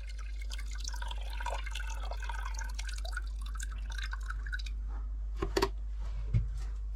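Water trickling and dripping into a jug, with small bubbly plinks, then a few sharp knocks about five and a half seconds in.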